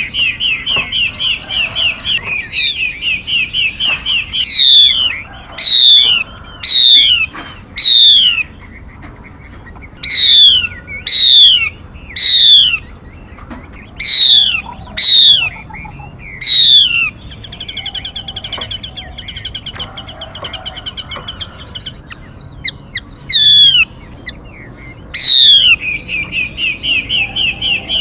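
Recorded calls of a female mi songbird used as a trapping lure. A quick trill of repeated notes alternates with loud, sharply falling whistles about a second apart, and the trill returns fainter in the middle and again near the end.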